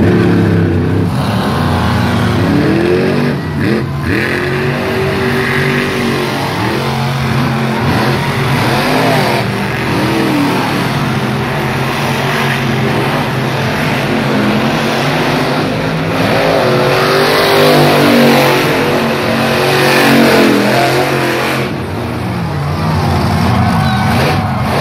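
Monster truck engine running loud and revving up and down over and over during a show run, with the hardest revving about two-thirds of the way through.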